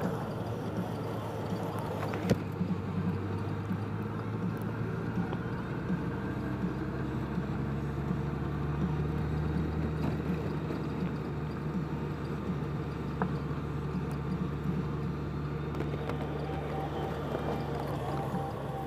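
Motorcycle engine running at a steady road speed with wind and road noise; its note rises a little partway through, then holds steady. A couple of sharp clicks, the first about two seconds in.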